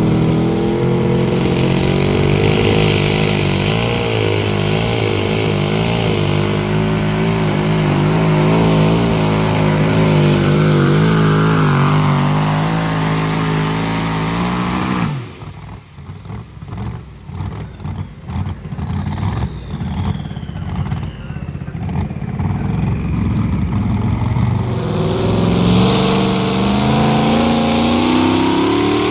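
Pulling engine running hard under load, its pitch wavering, then cut off suddenly about halfway through, leaving a falling whine as it winds down. The engine revs up again near the end with rising pitch.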